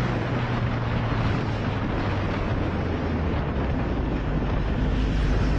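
Motorcycle engine running steadily while riding, under heavy wind noise on the microphone.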